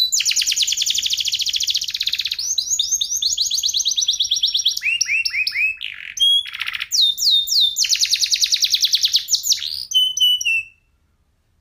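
Domestic canary singing a fast, loud song of rapid trills and rolls: long runs of quickly repeated notes, falling whistled sweeps, and a lower, slower trill about five seconds in. The song stops abruptly about a second before the end.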